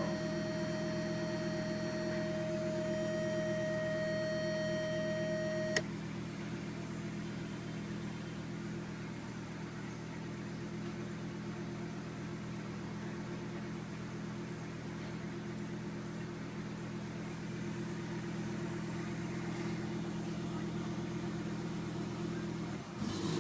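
Audi UrS6's turbocharged inline-five engine idling steadily just after catching on a long-cranking cold start. A steady high whine sits over the idle for the first six seconds or so and stops with a click.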